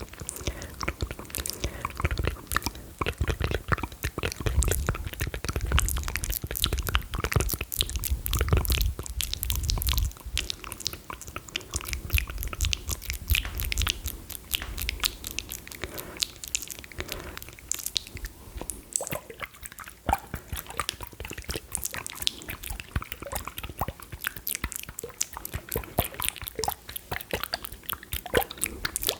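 Close-miked ASMR sticky mouth sounds: dense, irregular wet clicks and smacks. A low rumble runs under them for roughly the first half.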